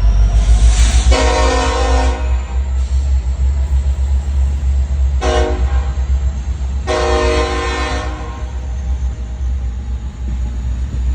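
BNSF diesel locomotives passing with a steady low engine rumble, the lead unit sounding its air horn three times: a long blast, a short one, then a long one.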